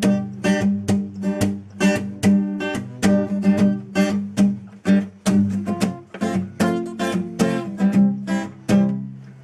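Acoustic guitar strummed in a steady rhythm: palm-muted downstrokes alternating with upstrokes left to ring.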